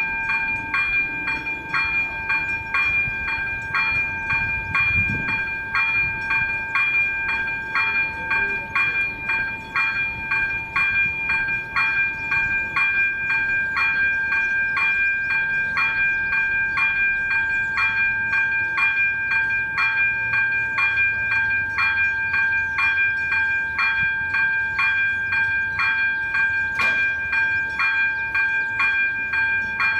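Level crossing warning bell of AŽD 97 crossing signals ringing steadily at about two strokes a second, with a faint low rumble underneath and one sharp click near the end.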